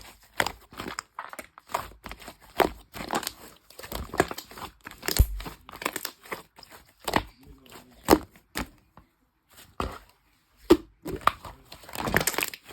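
Irregular crinkling and tearing handling noises made up of many short clicks and rustles, with a brief pause in the middle and a denser flurry near the end.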